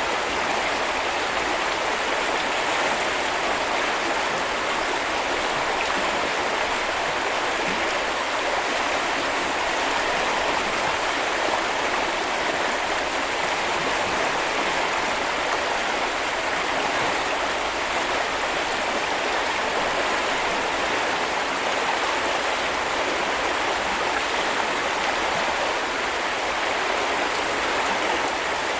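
Small river or brook flowing over stones, a steady, even rushing of water.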